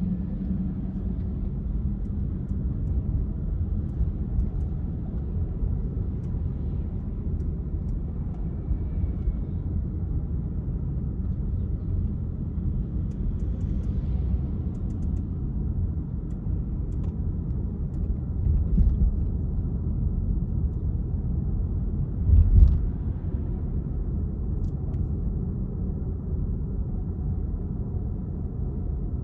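Car driving through city streets: a steady low rumble of road and engine noise. Two brief low thumps stand out in the second half, the second the louder.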